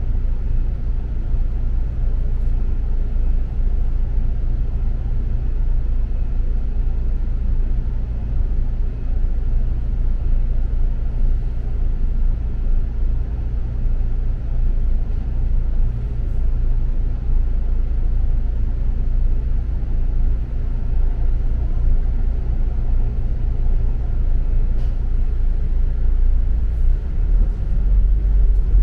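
Double-decker bus under way, heard from inside the cabin: a steady low rumble of engine and road noise, growing a little heavier near the end.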